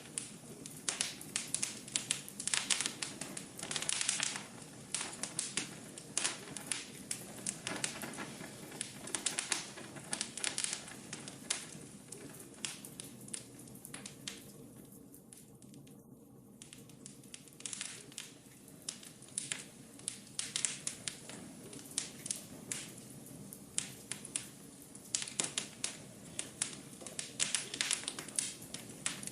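Wood fire in a fireplace crackling: irregular sharp snaps and pops over a soft, steady rush of flames. The crackling dies down to a brief lull about halfway through, then picks up again.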